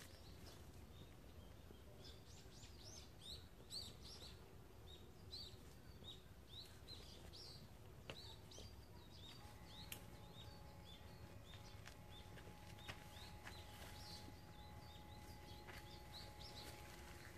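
Faint chirping of small birds: many short, quick calls repeating throughout over a low, steady background hum.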